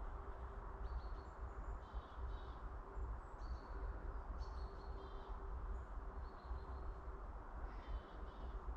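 Wild birds chirping in short high calls about once a second, over a steady low rumble of wind on the microphone.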